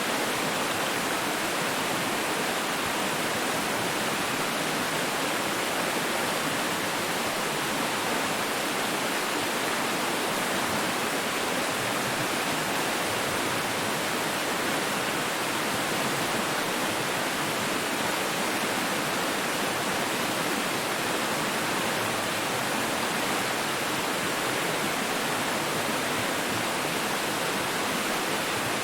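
Steady rushing water, an even hiss with little bass that does not change.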